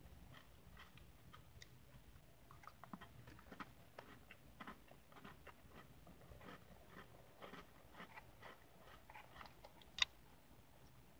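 Close-up chewing of Oreo cookies and whipped cream: many soft, irregular mouth clicks and wet smacks, with one sharper click about ten seconds in.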